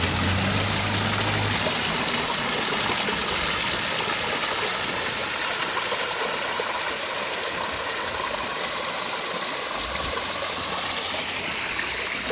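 Mountain valley stream flowing: a steady rush of water. A low hum stops about a second and a half in.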